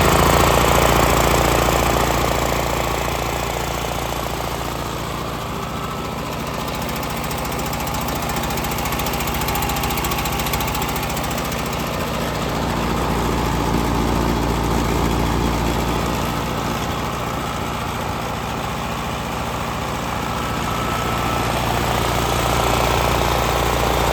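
Generac GP5500 portable generator's single-cylinder engine running steadily just after starting, still on choke and warming up, its level swelling and easing slowly.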